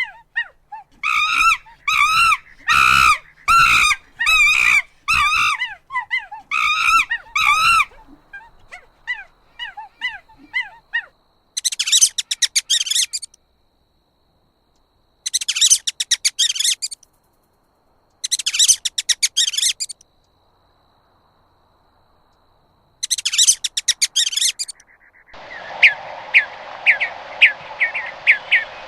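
A sequence of animal calls: a run of repeated wavering calls, then four short high buzzy bursts separated by silence, then rapid sharp chirps over a steady hiss near the end.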